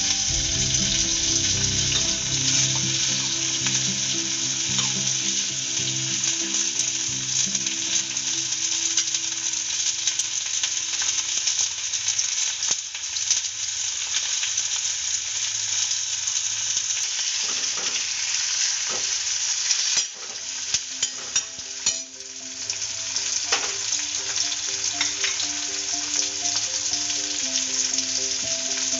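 Sliced onions and tomatoes frying in hot oil in a wok: a steady, even sizzle. The sizzle dips briefly about twenty seconds in, with a few clicks.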